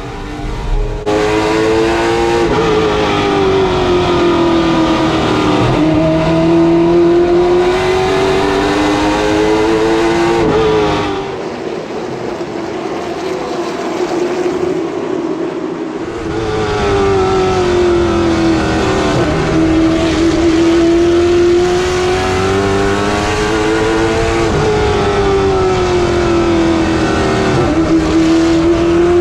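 Late model stock car's V8 engine at racing speed, rising in pitch down each straightaway and falling as it lifts into the turns, about every seven to eight seconds. It turns duller and quieter for a few seconds in the middle.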